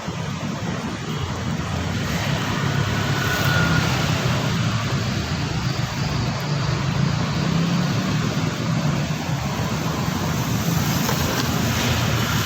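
Steady road-vehicle noise: engine and traffic sound running continuously at an even level.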